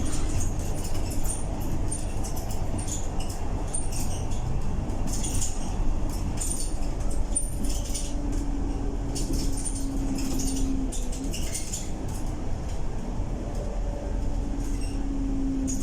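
Scania K230UB bus driving, heard from inside the cabin: a steady low engine and road rumble with a drivetrain whine that comes up about halfway through and again near the end, and interior panels rattling and ticking throughout.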